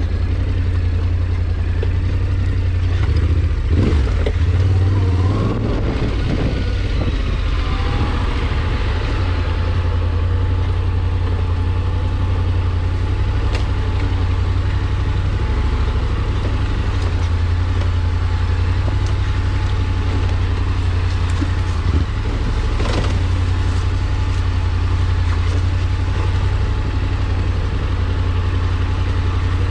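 Engine running steadily with a low drone, with some clattering a few seconds in.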